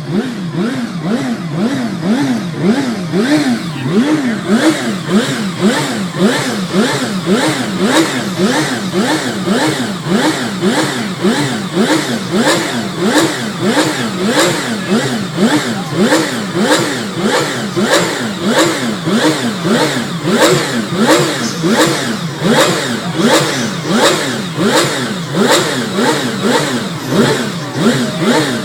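Ferrari 333SP's V12 racing engine running stationary, its revs rising and falling in a steady rhythm about three times every two seconds.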